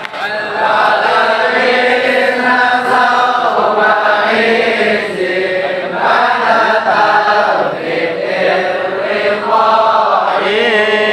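Voices chanting shalawat, devotional praise of the Prophet, in long sung phrases with brief breaths between them.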